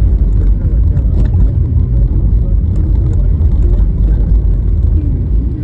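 Car driving on a bumpy, snow-covered road: a steady low rumble of tyre and road noise, with a few light knocks.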